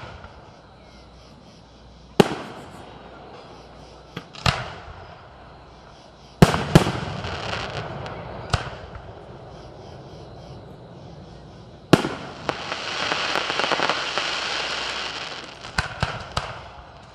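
Aerial fireworks display: six separate booming shell bursts, a few seconds apart, followed by a long crackling shower of about three seconds and then a rapid cluster of pops near the end.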